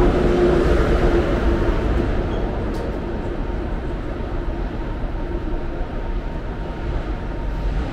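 Berlin S-Bahn electric train standing at the platform with a steady rumble and a hum that fades out after about two seconds. A single sharp click comes near three seconds in, as the train's doors are released and open.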